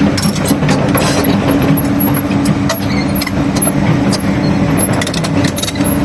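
Excavator's diesel engine running steadily under load, with repeated metallic clanks and clicks from the machine working and a few short high squeaks.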